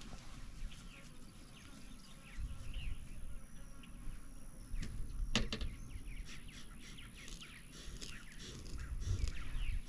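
Small birds chirping in short repeated calls, over a low rumble, with one sharp click about halfway through.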